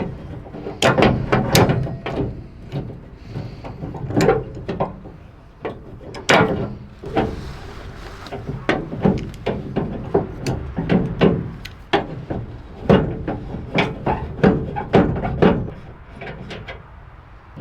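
Irregular clanks, clicks and knocks of hand-tool work, some in quick clusters with a short scrape about halfway, as an old pickup truck is dismantled.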